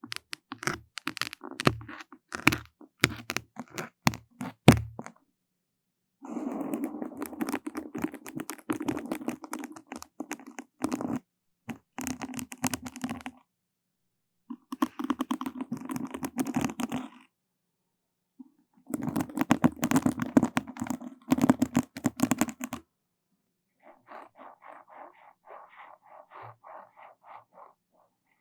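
Close-miked crackling and scraping on a microphone, in bursts a few seconds long split by dead silence. It opens with sharp separate clicks, then comes dense crackle, and near the end a softer, rapid ticking.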